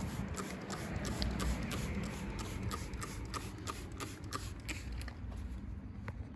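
Towel rubbing and wiping across a car's body panel: a continuous shuffling scrape with many small ticks scattered through it.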